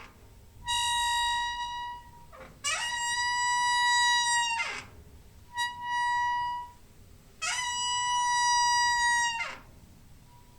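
Squeaking door hinge: four long, high-pitched squeaks of steady pitch with short pauses between, the second and fourth sliding up at the start and dropping away at the end.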